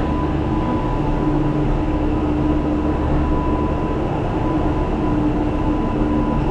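Cable car gondola in motion, heard from inside the cabin: a steady rumble with a constant hum running under it.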